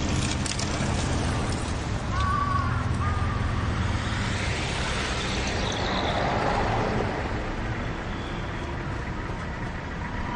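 City road traffic: vehicle engines running and cars passing, with a swell of passing-car noise in the middle. A few short high chirps come about two seconds in.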